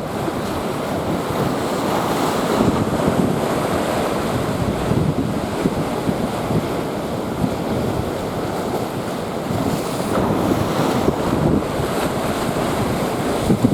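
Strong gusty wind buffeting the microphone over the steady rush of breaking surf, the heavy swell of a distant typhoon.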